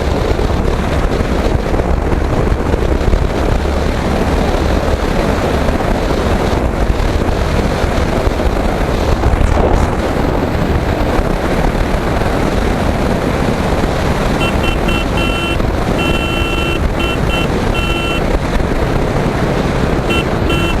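Steady wind noise on the microphone over the running noise of a Royal Enfield Hunter motorcycle on the move. In the last third comes a run of short, high beeps, which stop and then return briefly near the end.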